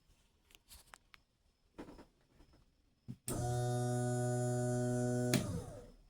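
Seaflow 14A bilge pump's small electric motor switched on, running with a steady hum for about two seconds, then cut off and winding down with a falling pitch. A few faint knocks and a click come before it starts.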